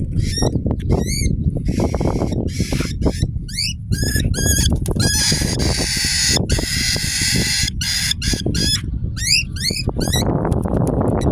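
Cockatiel calling: runs of short, quickly sliding high chirps, coming in bursts and pausing briefly between them, over a steady wind rumble on the microphone.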